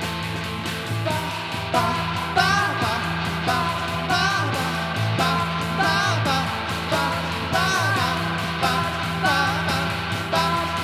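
A live band playing: steady bass notes under a regular beat, with a wavering, swooping lead melody coming in about two seconds in.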